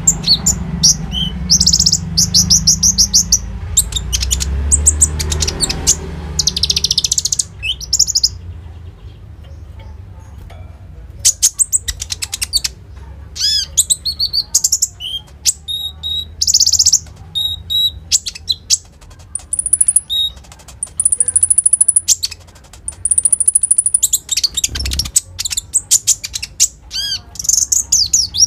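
A konin bird singing a fast, varied song of rapid high chirps and trills. It holds long high whistles about two-thirds of the way through and pauses briefly near a third of the way in. A low hum runs under the opening seconds.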